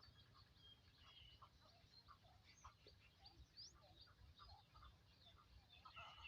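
Faint birdsong: many short chirps and quick rising and falling whistles from several small birds, over a low rumble.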